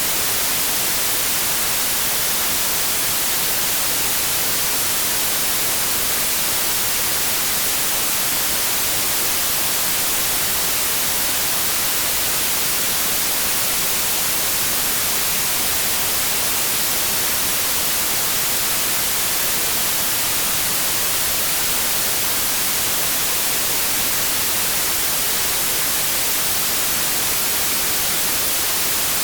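Steady white noise: an even, unchanging hiss with no tones or events.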